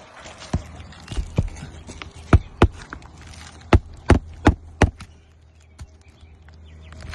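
Hammer blows on an asphalt shingle roof: about nine sharp knocks in irregular groups, the loudest between about two and five seconds in.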